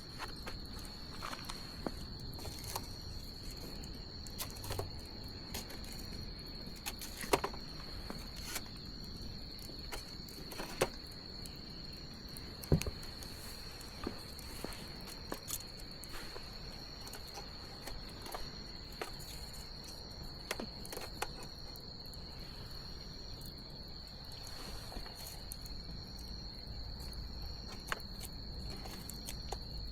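Wood bonfire crackling, with irregular sharp pops, the loudest about a third of the way in, over a steady high-pitched chirring of crickets.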